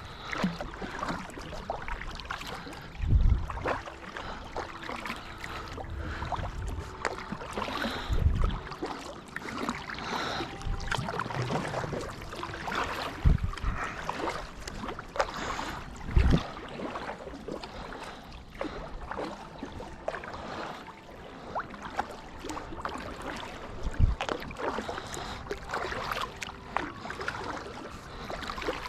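Pedal kayak moving along a river: water splashing and lapping against the hull, with a few brief low thumps scattered through.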